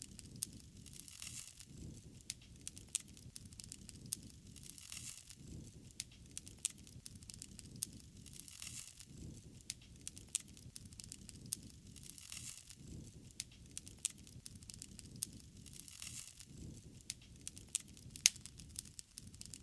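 Wood fire crackling, with many sharp pops and snaps over a low rushing of flames that swells and fades every few seconds.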